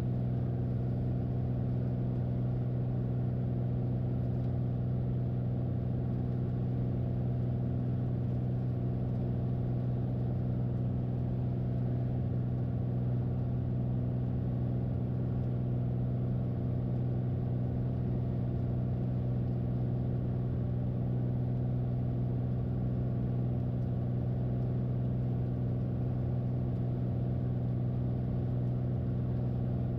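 Light piston aircraft's engine and propeller droning steadily in the cockpit, one even pitch with no change in power.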